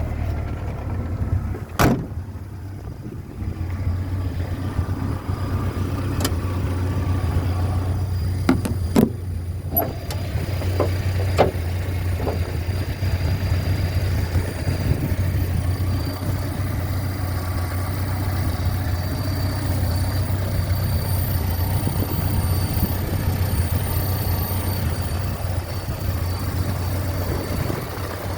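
1978 short-wheelbase 88-inch Land Rover's engine idling steadily just after starting, with a few sharp clicks or knocks over the first dozen seconds.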